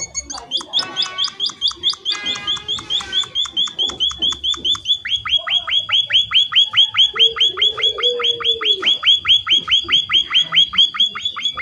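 Emprit finches calling: scattered chirps, then about five seconds in a fast, even string of short notes sliding downward in pitch, about six a second.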